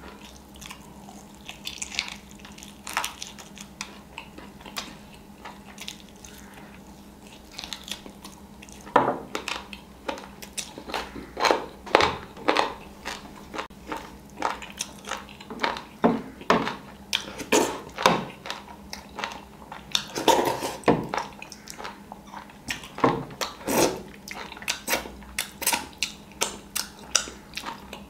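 Close-miked eating of chicken wings by hand: chewing with wet lip smacks and mouth clicks. They are sparse at first and come in a dense, irregular run from about nine seconds in.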